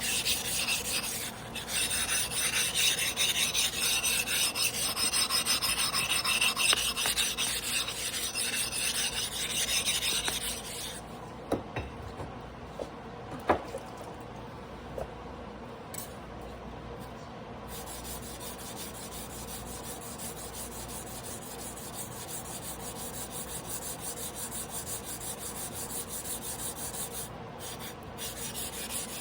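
A Hayate Yoshihiro damascus carbon-steel sashimi knife is being ground by hand on a whetstone: repeated back-and-forth scraping strokes. The strokes are loud for about the first third. A few light clicks follow, then softer, steady strokes run through the second half.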